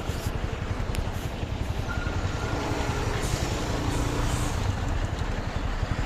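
A vehicle engine running with a steady low rumble, amid road traffic noise.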